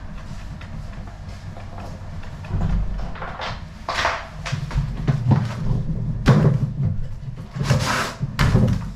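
Irregular knocks and clatter of hard objects being handled, with several louder bangs through the second half, over a steady low hum.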